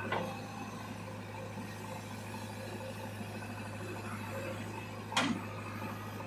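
Diesel engine running steadily at low revs, with a sharp knock at the start and a metallic clank about five seconds in.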